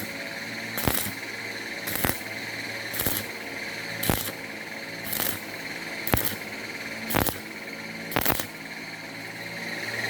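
A small motor running with a steady whine, broken by a short harsh rasp about once a second, eight times in all.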